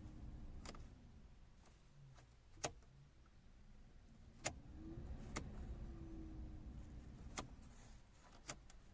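VW Polo 9N3 heater blower motor running with a low, steady hum and no squeak, freshly cleaned and lubricated. The hum drops about a second in and rises again around five seconds. About six short clicks sound through it.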